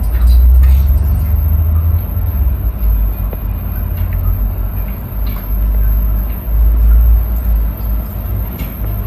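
Deep rumble of the building shaking in a major earthquake, swelling and easing twice, with scattered light rattles on top.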